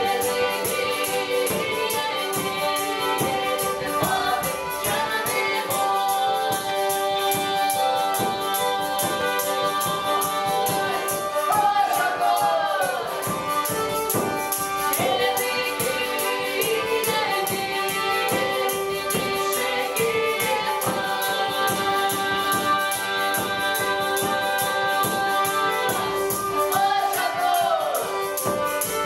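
Folk ensemble performing a traditional many-voiced song: several voices singing held, sliding notes over instrumental accompaniment and a steady percussion beat.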